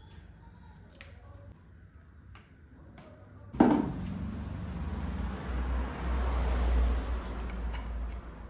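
A few light clicks, then about three and a half seconds in the KTM Duke 200's single-cylinder engine starts with a sudden burst and runs with a low, steady rumble.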